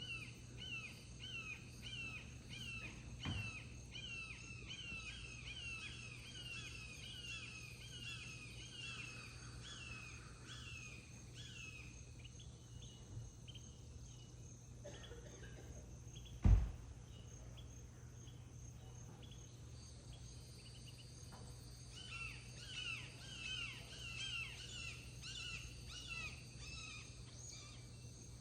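Woodpecker calling in a long series of short, downward-sliding notes, about two a second. The calls pause midway and resume a few seconds later. A single sharp thump falls a little past the middle, over a steady low hum.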